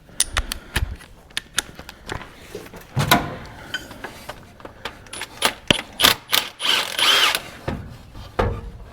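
Hand tools working on engine bolts: irregular metal clicks and knocks of a socket wrench on an extension, with a brief continuous burst a little before the end.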